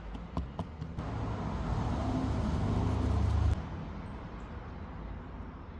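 A few light clicks, then a low rumble like a passing motor vehicle that builds for a couple of seconds and cuts off suddenly about three and a half seconds in.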